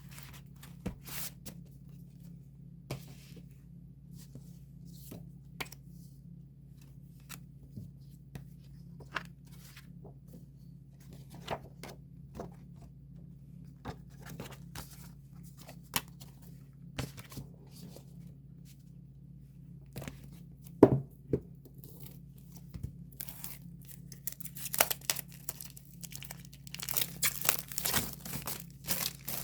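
Album packaging being opened by hand: wrapping tearing and crinkling in scattered short rustles that grow denser and louder near the end, over a faint low steady hum.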